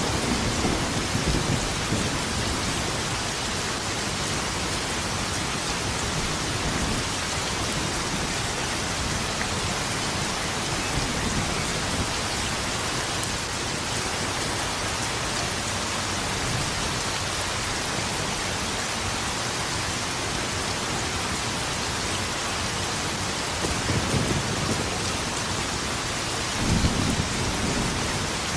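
Steady heavy rain with low rolls of thunder: one near the start and two more near the end, the last one the loudest.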